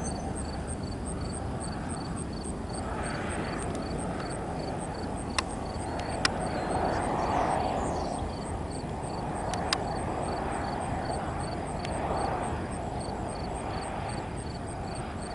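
Airliner flying over on its landing approach: steady engine noise that swells a little in the middle. A few sharp clicks sound over it.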